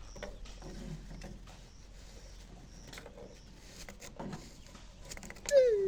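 Faint scattered knocks and rustling, then near the end one loud, drawn-out animal call that dips in pitch and rises again.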